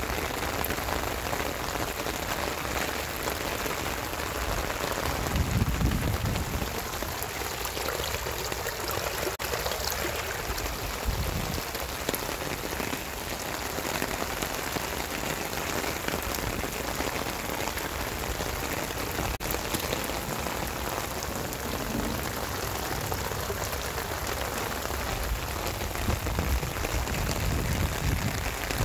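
Steady rain falling, an even hiss, with a low rumble swelling about five seconds in and again near the end.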